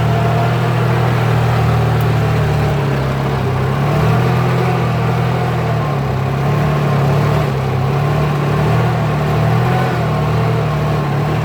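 Kubota tractor's diesel engine running steadily under load while ploughing a wet rice field, its pitch rising and falling slightly.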